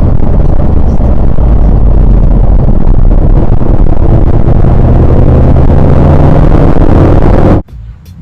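Very loud car engine under acceleration in a sports car, its note climbing slowly through a dense layer of noise. It cuts off abruptly near the end.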